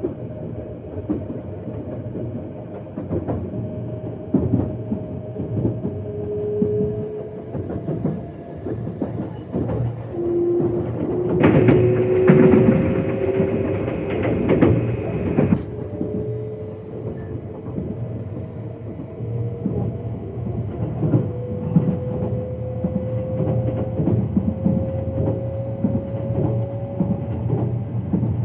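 Interior running sound of a JR East E657-series electric express train picking up speed: a steady rumble with frequent clicks of the wheels over rail joints and a faint motor whine that slowly rises in pitch. About a third of the way in, a louder rushing noise comes in for about four seconds, then drops back.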